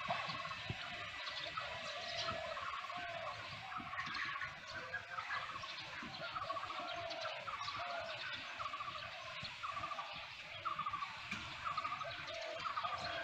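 Birds calling over one another outdoors: short chirps and trills repeated every second or so.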